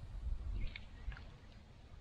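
A few short, faint bird chirps around the middle, over an uneven low rumble.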